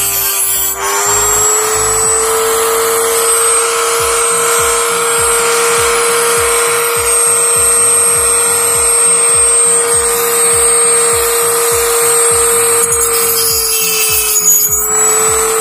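Mini die grinder running at high speed with a steady whine, its cutting disc grinding into a die-cast metal toy car. The pitch climbs slightly at the start and sags briefly near the end as the disc bites. Background music with a steady beat plays underneath.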